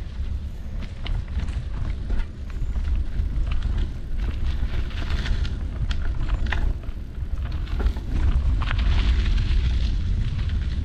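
Wind buffeting the helmet camera's microphone while riding a mountain bike on a dirt trail, with tyre noise and scattered clicks and rattles from the bike. The rushing hiss grows stronger near the end.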